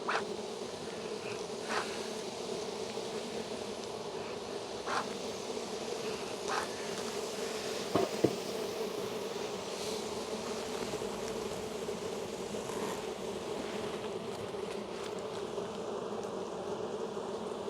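Dense, steady buzzing of a large colony of honey bees around an opened hive, with a few short clicks and knocks from the frames and hive tools, the sharpest about eight seconds in.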